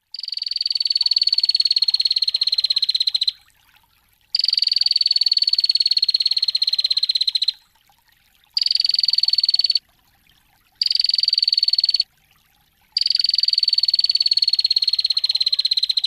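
A songbird's very fast rattling trill from a bird-song tutor recording, given in five bouts with short pauses between: the first two and the last about three seconds long, the middle two about a second. Each bout starts and stops sharply and drops slightly in pitch.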